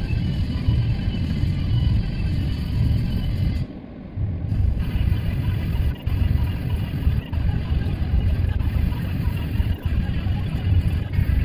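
Steady low rumble of a car driving, engine and road noise, briefly quieter about four seconds in.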